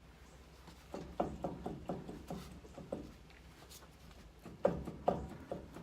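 Worn front hub bearing assembly on a 2012 Ford F-150 making a repeated grinding creak, in two runs of short strokes a few tenths of a second apart over a low hum. The noise is the sign of a failing wheel hub bearing that needs replacing.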